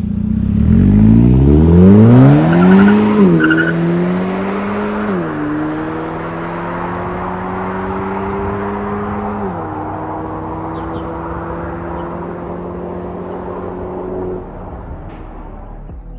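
Hyundai Elantra Sport's turbocharged 1.6-litre four-cylinder engine, breathing through an MS-R valved aftermarket exhaust, accelerating hard. Its pitch climbs steeply, then drops sharply at three quick upshifts of the dual-clutch gearbox, about 3, 5 and 9.5 seconds in. After the last shift it runs at a nearly steady pitch and dies away near the end.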